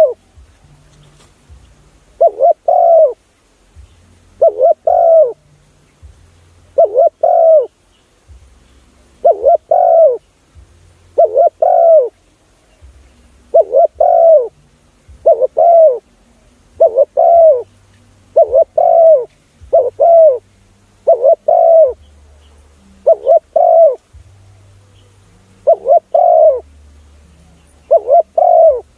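Spotted dove cooing: a short, two-part coo repeated steadily about every two seconds.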